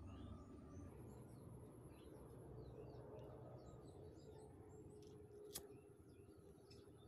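Near silence with faint, scattered bird chirps in the background and one sharp click a little past halfway through.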